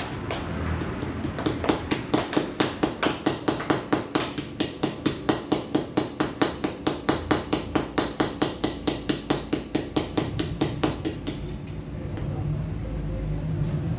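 A hammer striking metal in a fast, even run of blows, about four a second, each with a short metallic ring. The hammering starts about a second and a half in and stops about eleven seconds in.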